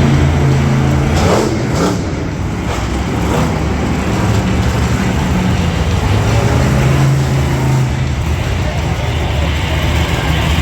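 Monster truck engine running loud, its revs rising and falling about a second in and again later.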